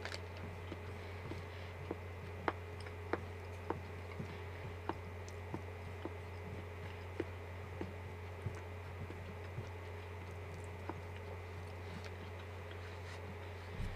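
A man chewing potato close to a microphone: short moist mouth clicks about every half second, over a steady low hum.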